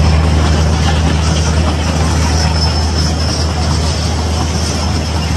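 Express train passing close by: a steady low engine hum under the noisy rumble of the train, slowly getting quieter.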